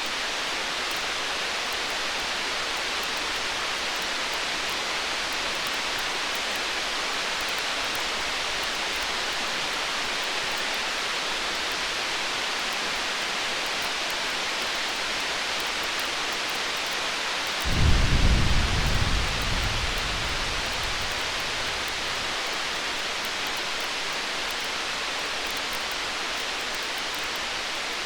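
A single roll of distant thunder about two-thirds of the way in: a low rumble that starts suddenly and fades over about four seconds. Under it runs a steady hiss with faint crackles of a burning campfire.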